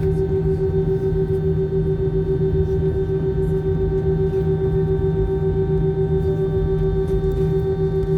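Aircraft engines droning steadily: a constant loud hum with several fixed tones over a low rumble, holding the same pitch throughout.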